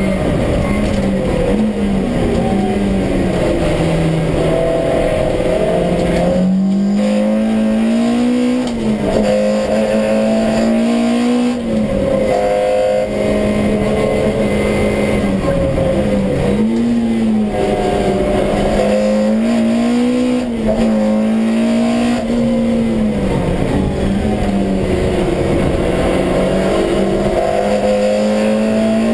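Honda B18 1.8-litre four-cylinder on individual throttle bodies, heard inside the cabin of a stripped CRX race car, running hard with the revs rising and falling repeatedly as the car accelerates and lifts off along the track. There is a brief break in the engine note about six seconds in.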